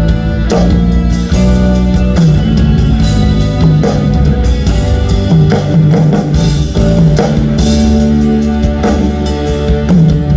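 A live band playing loud rock music at a sound check: guitar and drum kit, with sustained low notes carrying the tune over regular drum strikes.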